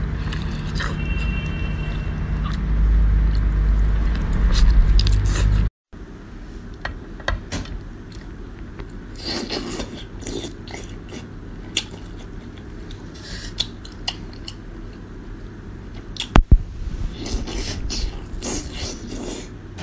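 Close-miked eating. Biting and chewing cooked octopus over a heavy low rumble, then a sudden cut to quieter, sparse wet clicks, sucking and chewing as cooked sea snails are eaten off a skewer. A sharp, loud click comes near the end.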